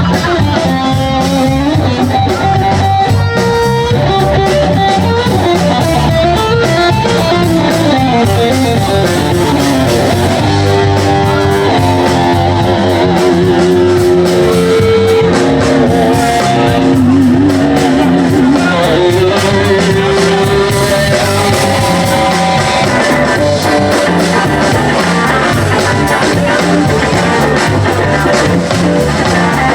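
A band playing a rock number: a guitar carries the melody over bass and drums, with a few wavering bent notes about two-thirds of the way through.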